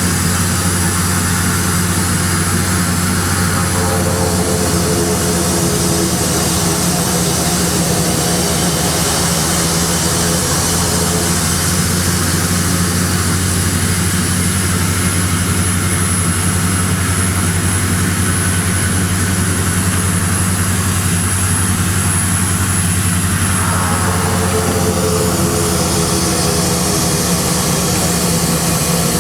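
Dornier Do 228's twin Garrett TPE331 turboprop engines running steadily: a deep propeller drone with a high turbine whine over it. The sound shifts a few seconds before the end, with the whine changing and a new higher tone coming in.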